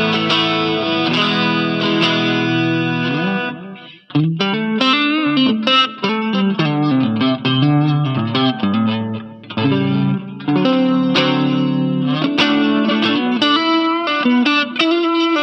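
Electric guitar being played: ringing held chords, a short break about four seconds in, then a run of picked notes and chord changes.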